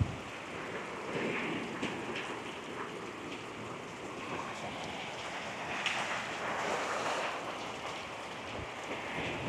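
Hurricane rain falling steadily in an even hiss, with a few sharper drop impacts and slight swells in strength.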